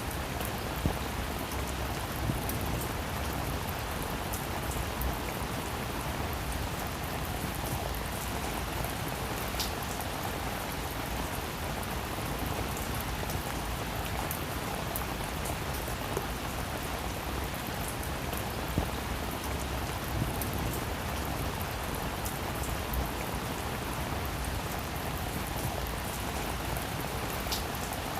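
Steady rain falling on a roof, a continuous even patter with occasional louder individual drops.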